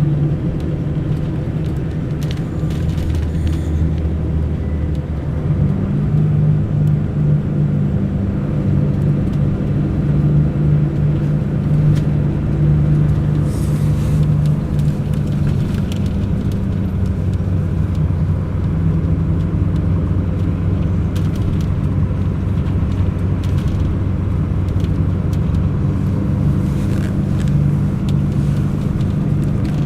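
Mercedes-Benz O500 RSD BlueTec5 coach's diesel engine running under way, heard from inside the bus; its pitch steps up about five seconds in and then holds steady.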